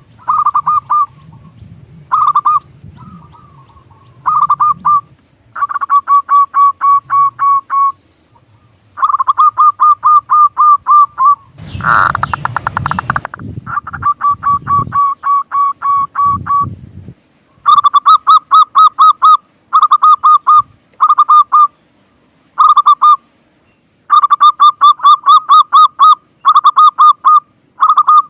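Zebra doves (perkutut) cooing: bursts of fast, evenly repeated short notes, each burst lasting one to two seconds with brief pauses between. A short noisy rush breaks in about twelve seconds in.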